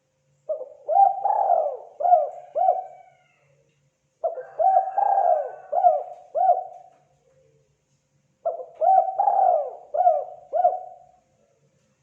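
Spotted dove (terkukur) cooing: three phrases of several short coos each, about four seconds apart.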